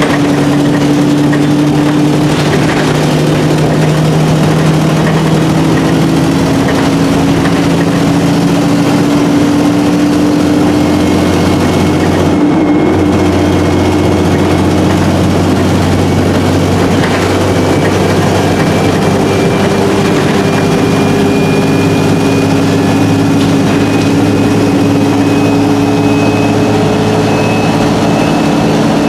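Onboard sound of an Alexander Dennis Enviro300 bus on an ADL E30D chassis under way, its engine running steadily and shifting in pitch as the Voith four-speed automatic gearbox works through the gears, with a brief dip near the middle. The exhaust is blown. A thin high whine rises slowly through the second half.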